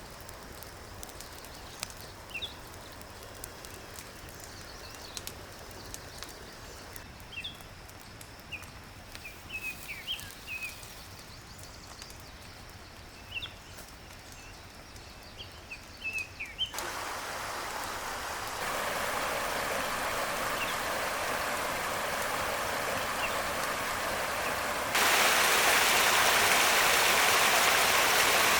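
A wood fire being lit and burning: faint crackles under short bird chirps, then a steady crackling rush that steps up louder about two-thirds of the way in and again near the end as the fire takes hold.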